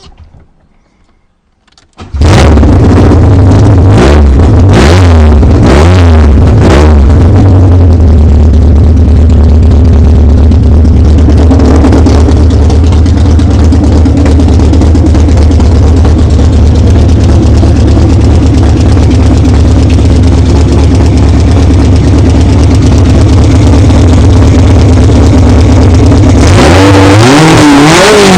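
VAZ 2108's 16-valve engine on individual throttle bodies (four-throttle intake) firing up on its first start about two seconds in. It is blipped several times, settles into a steady idle, and is revved up and down near the end.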